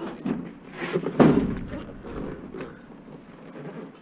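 Several clunks and knocks as a scrap clothes dryer is handled and shifted, the loudest about a second in.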